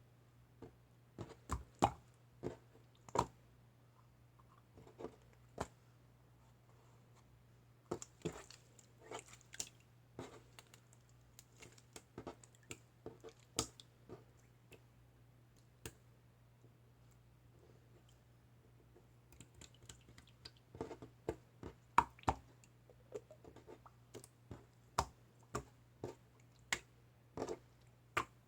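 Scattered light clicks and taps, as of small objects being handled, coming in two busier stretches, over a faint steady low hum.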